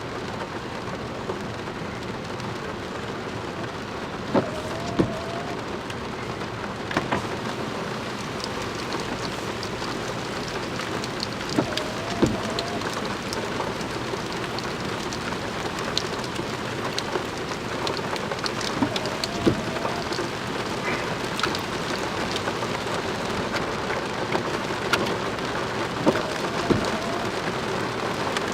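Heavy rain falling steadily. About every seven seconds there is a pair of sharp knocks together with a short wavering tone.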